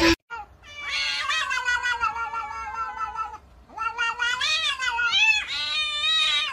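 Cat caterwauling in a face-off with another cat: one long wavering yowl of about three seconds, then a run of shorter yowls that rise and fall.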